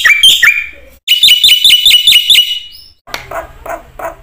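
Black-winged myna (jalak putih) singing: rapid runs of sharp, repeated chirps, about five a second. About three seconds in they give way to a series of harsh, rasping calls.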